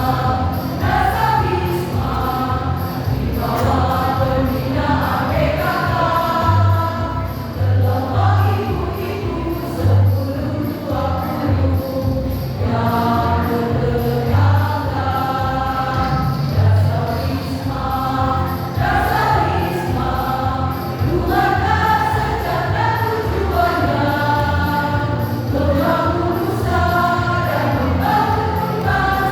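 A choir singing together over an amplified backing track with a steady bass beat.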